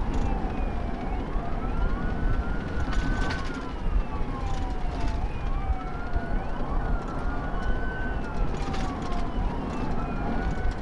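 Police siren wailing, a slow rise and fall repeating about every three seconds, with a second siren overlapping out of step. Under it runs a steady rumble of engine and road noise from the pursuing patrol car.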